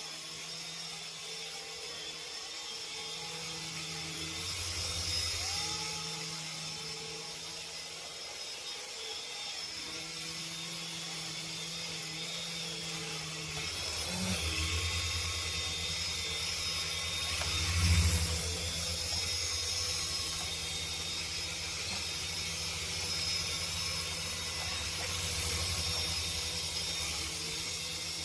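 Toy RC helicopter's small electric motors and rotors whirring in flight. A low rotor pulsing grows stronger about halfway through and is loudest around two-thirds of the way in.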